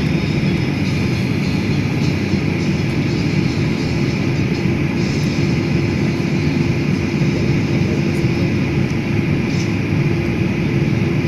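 Steady roar of a jet airliner's engines and airflow heard inside the passenger cabin in flight, with a constant droning tone and no change in pitch.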